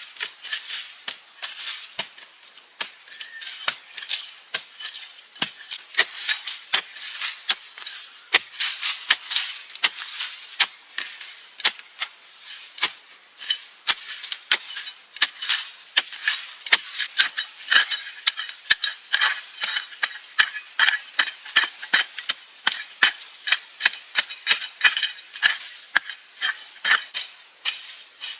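Dense, irregular sharp clicks and cracks, several a second, over a faint steady hiss.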